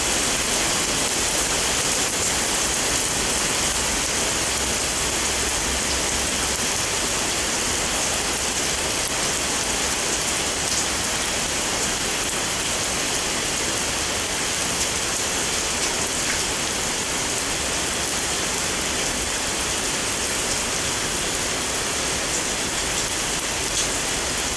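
Heavy rain pouring steadily onto a wet wooden deck, a dense even hiss with a few sharper drop hits here and there.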